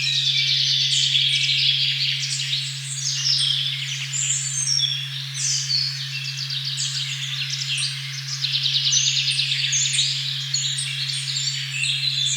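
A steady 136.1 Hz sine tone, the 'OM' or heart-chakra frequency, hums unbroken beneath a forest dawn chorus of many songbirds chirping and trilling over one another.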